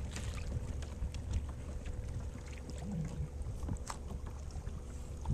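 Kayak paddling: a paddle dipping into the water with scattered small splashes and drips, over a low rumble of wind on the microphone.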